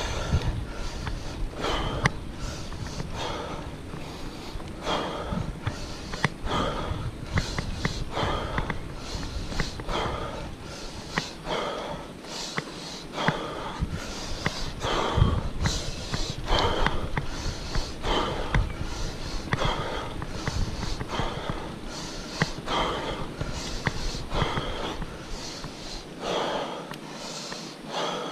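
Heavy, laboured breathing of a cyclist straining up a steep climb, a hard breath about once a second.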